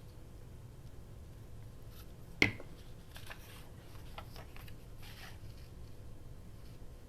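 Paper crafting at a table: one sharp click or tap about two and a half seconds in, followed by soft rustling and small ticks of paper being handled.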